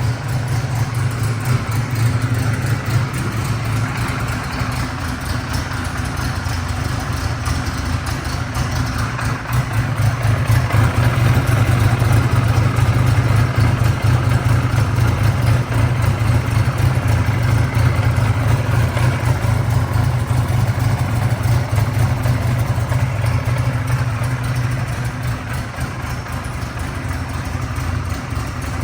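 1983 Kawasaki Z1000-R2's air-cooled inline-four engine running through a Harris exhaust system, a steady low idle that grows somewhat louder from about ten seconds in and eases back near the end.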